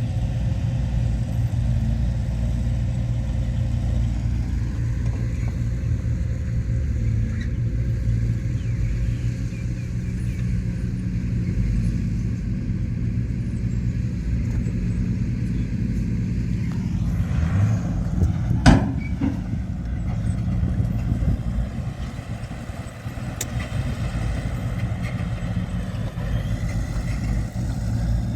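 Heavy diesel engine of earthmoving machinery running steadily under a low drone, with one sharp knock about two-thirds of the way through.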